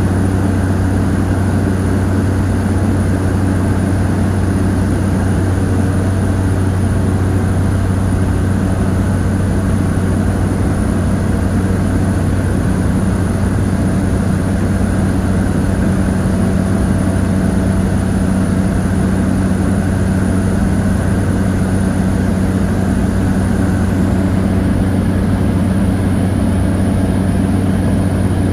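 Cabin noise of a Cessna 208 Caravan's single Pratt & Whitney PT6A turboprop engine and propeller: a loud, steady low drone with a thin high whine above it, unchanging throughout.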